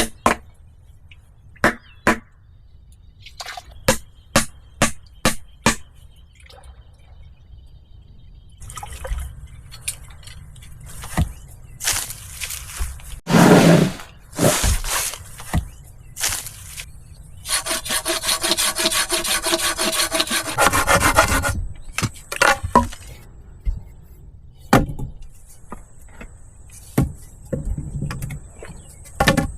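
Wood being worked by hand: a quick run of sharp knocks, then rough scraping strokes, with one steady stretch of rapid strokes lasting about four seconds past the middle.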